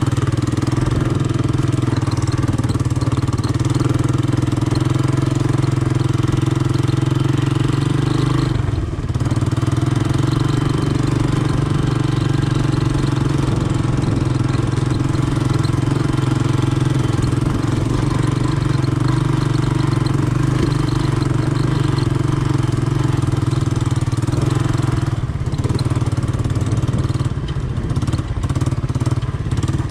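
Honda ATC 200M three-wheeler's single-cylinder four-stroke engine running at steady revs, easing off briefly about nine seconds in. Near the end the engine note changes and a few clattering knocks come through.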